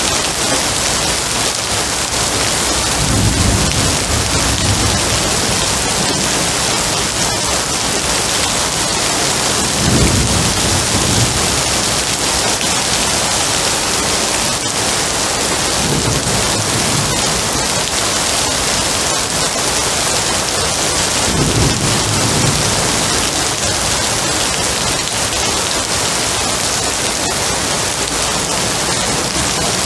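Steady heavy rain falling, a dense even hiss, with low rolls of thunder rumbling in about five times.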